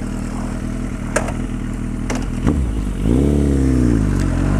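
Suzuki Bandit 1250N's inline-four engine idling, with two short clicks, then revving up as the bike pulls away: the pitch climbs, eases off, and drops and climbs again near the end.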